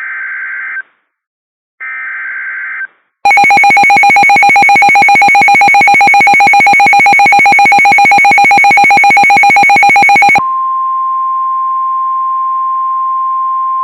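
NOAA Weather Radio alert signalling: two short buzzy digital data bursts (the SAME header), then a very loud, harsh, rapidly pulsing alert tone for about seven seconds. About ten seconds in it gives way to the steady 1050 Hz warning alarm tone, which signals that a warning is about to be read.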